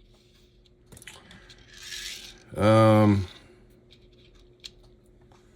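Faint clicks and clinks of tiny metal parts of an HO-scale slot car being handled on a bench. About halfway through comes a short hum on a single held pitch, the loudest thing here, just after a soft sniff-like hiss.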